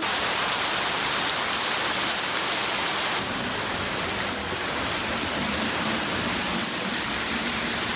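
Torrential rain pouring down, a steady dense hiss of heavy rainfall.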